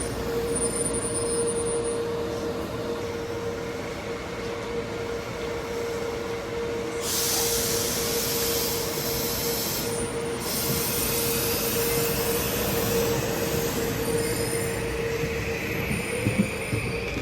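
Metro-North commuter train running past with its wheels squealing in one long steady tone over the rumble and hiss of the train; the tone bends upward near the end.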